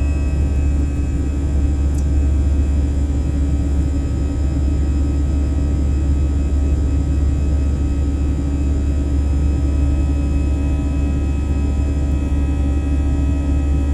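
Airliner engine noise heard inside the passenger cabin: a steady, loud low rumble with constant engine tones on top, holding unchanged.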